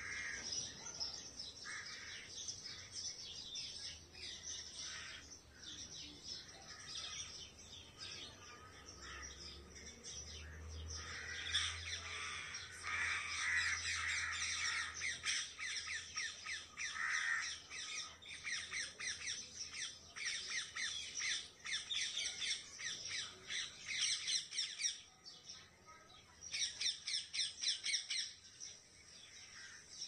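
Birds squawking and chirping, with long runs of rapid, harsh repeated calls through the middle and another short run near the end.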